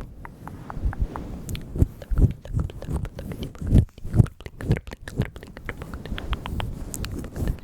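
Close-miked ASMR mouth sounds: wet tongue clicks and lip smacks in a quick, irregular patter, with a few louder wet pops about two and four seconds in.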